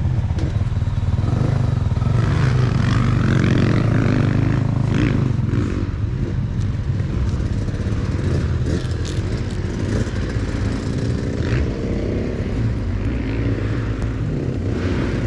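A vehicle engine running steadily while driving, heard as a constant low drone.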